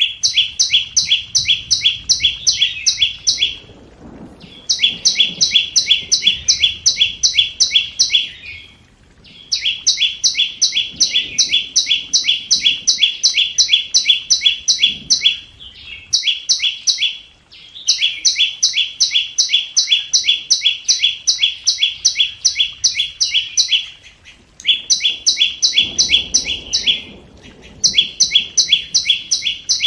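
Scarlet-backed flowerpecker calling: rapid series of sharp, high notes, about three a second, in bouts of several seconds broken by short pauses. The call is used as a decoy to lure wild birds.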